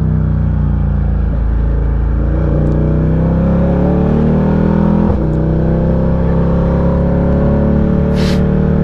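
Ducati Diavel 1260's Testastretta V-twin engine running under way, its pitch climbing as it accelerates, with a brief break and drop about five seconds in, as at a gear change.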